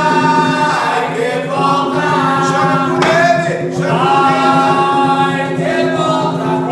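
A group of voices singing an Umbanda ponto (devotional chant) together, holding long notes.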